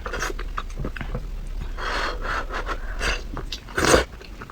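A person biting and chewing food with wet mouth-smacking sounds, close to the microphone, with a louder bite or smack near the end.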